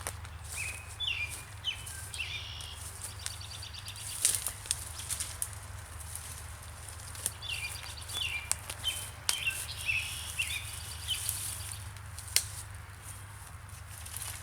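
A songbird singing two similar runs of quick chirped notes, one near the start and one about halfway through, over scattered sharp clicks and snaps from brush and leaf litter being moved or stepped on, with a steady low rumble underneath.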